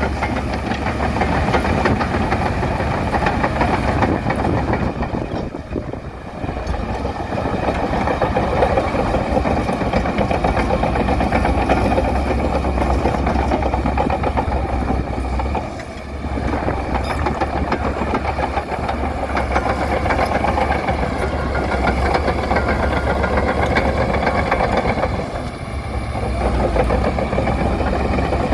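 Bulldozer's diesel engine running steadily under work, with a strong low hum, easing off briefly three times before picking back up.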